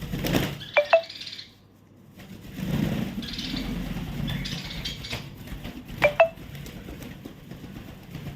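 Short metallic clinks in two quick pairs, about a second in and again about six seconds in, each with a brief ringing tone. Between them is a stretch of rustling and handling noise.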